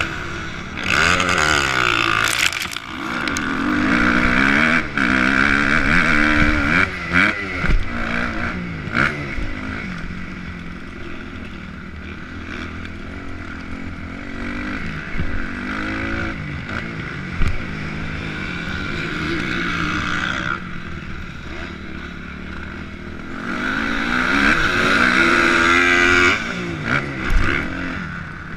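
Motocross dirt bike engine revving up and down as it is ridden around the track, heard close up from the rider's GoPro, with wind noise and scattered knocks. Hard on the throttle for the first third and again near the end, easing off to a lower drone in between.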